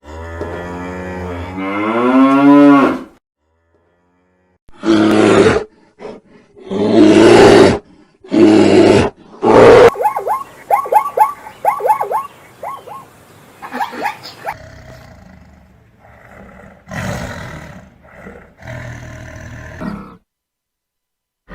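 A string of loud animal calls cut one after another with brief silences between: a long call rising in pitch, then several short loud calls, a rapid run of ticks or chatter, and a few quieter calls near the end.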